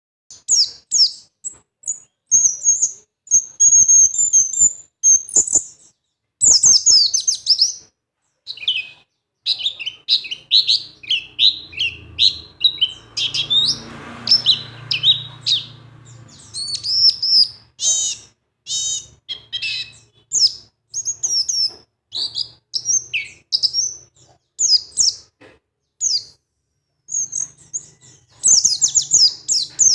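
Birds chirping and tweeting in quick, high-pitched runs of short notes, with brief pauses between bouts.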